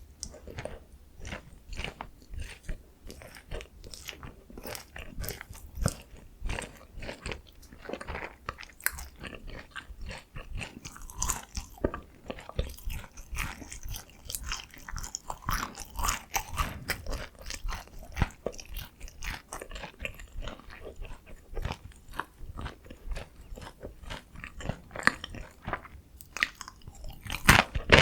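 Close-miked crunching and chewing of sweet soy-glazed Korean fried chicken (dakgangjeong): a dense run of crisp crackles and bites, louder near the end.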